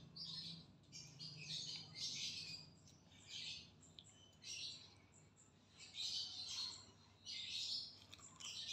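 A bird chirping in short bursts of high notes, repeated about once a second with brief gaps between.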